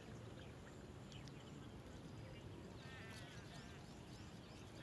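Faint, scattered bird chirps over a steady low background rumble, with a short quick warbling trill about three seconds in.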